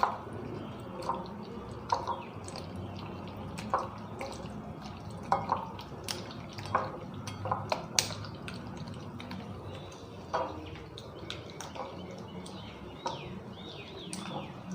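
Bone-in chicken pieces being mixed by hand in a wet marinade of egg and lemon juice: irregular wet squelches and small clicks, about one a second.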